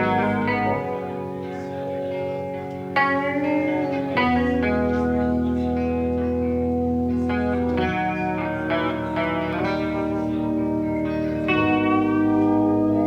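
Live band playing an instrumental passage led by guitar, sustained chords changing about every three to four seconds.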